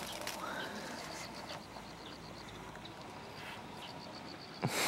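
Shiba Inu sniffing quietly at a shed snake skin in short faint sniffs, with a sudden louder rustle near the end.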